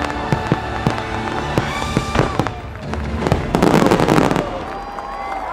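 Fireworks finale: a quick run of aerial shell bursts, then a dense, loud salvo of bangs and crackle a little past halfway that stops abruptly, with the show's music playing underneath.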